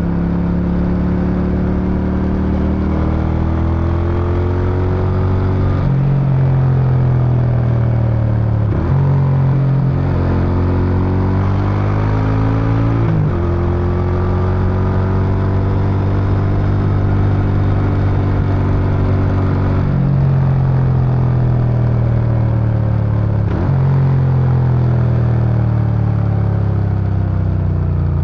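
Suzuki Intruder VS800's V-twin engine pulling through the exhaust under way. Its note climbs, then drops abruptly at each of several gear changes, with steady cruising stretches in between.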